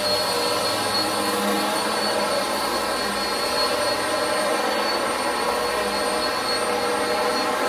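Upright vacuum cleaner running steadily: a high, even motor whine over the rush of its suction.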